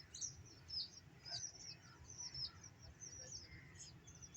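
Small birds chirping: many quick, high chirps throughout, fairly quiet, over a steady low rumble.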